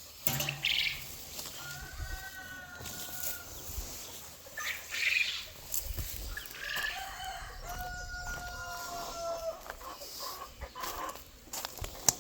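Roosters crowing: two long, drawn-out crows, one about two seconds in and a longer one near the middle, with short clucks and knocks in between.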